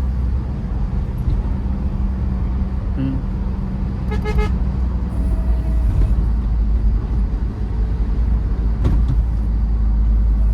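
Tata Safari Storme's 2.2-litre diesel engine and tyres giving a steady low rumble while driving, with a brief pulsing vehicle horn toot about four seconds in.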